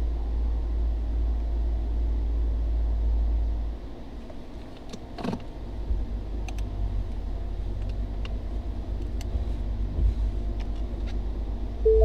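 Low idle rumble of a 2017 Mustang GT's 5.0 V8, fitted with headers and a catted exhaust. The rumble drops off about four seconds in and returns as an uneven low throb. A few light clicks and taps sound over it.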